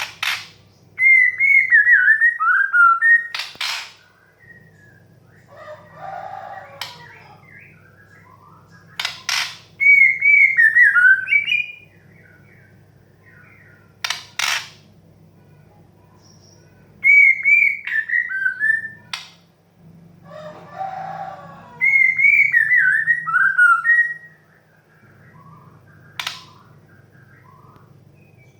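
A female white-rumped shama calls to a male. Four times, it gives a clear whistled phrase that slides down in pitch, mixed with sharp single clicks and short lower, rougher calls.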